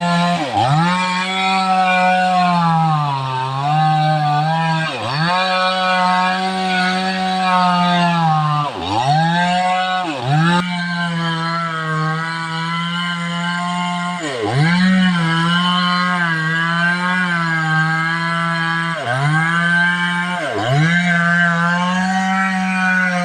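Two-stroke chainsaw running at high revs, its pitch dropping sharply and climbing back several times as it is throttled or loaded.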